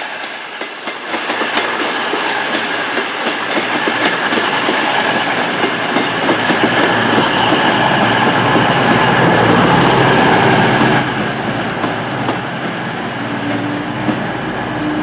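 Diesel multiple-unit train running through the station platform at low speed, wheels and engines sounding together. The noise builds to a peak about ten seconds in and then eases, with a short high squeal near eleven seconds.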